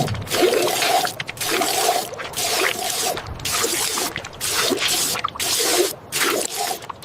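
Water splashing and sloshing in a run of irregular bursts with short breaks between them.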